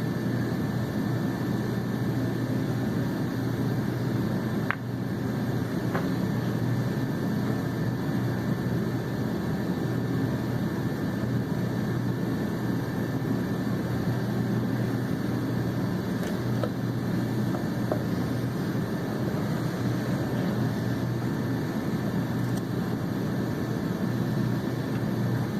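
Steady low mechanical hum, constant throughout, with a few faint light clicks.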